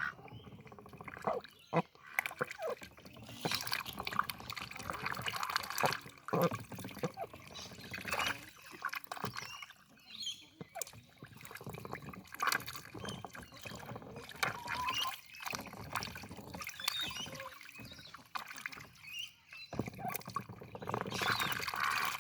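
A duck drinking, dabbling its bill very fast in water: quick, irregular wet splashing and slurping clicks.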